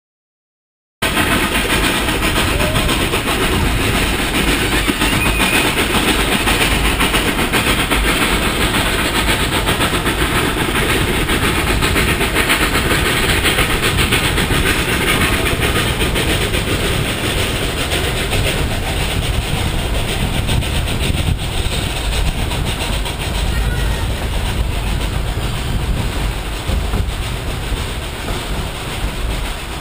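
Cumbres & Toltec narrow-gauge steam train heard from aboard, a steady loud rumble and rattle of the train running on the rails. It starts about a second in and carries on without a break.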